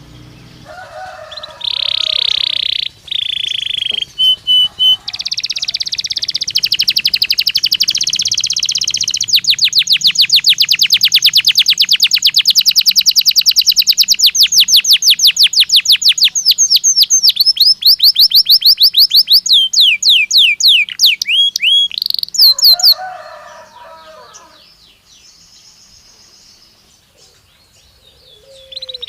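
Domestic canary ("Belgian canary") singing one long song of high trills. In the middle a long fast trill of rapidly repeated notes gradually slows. The song stops a little after twenty seconds in, and a new phrase begins right at the end.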